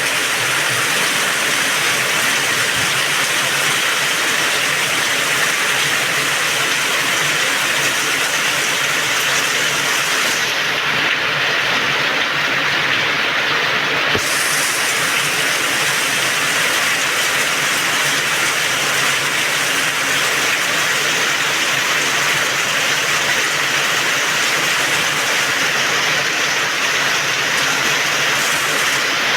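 Heavy rain pouring down steadily: a dense, even hiss of downpour.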